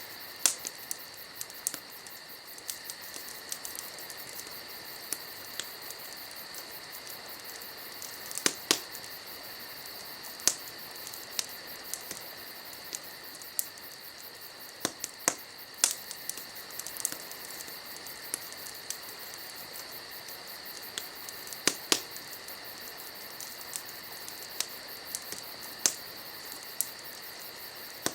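Wood campfire crackling, with sharp irregular pops and snaps a few seconds apart. Insects chirp steadily throughout.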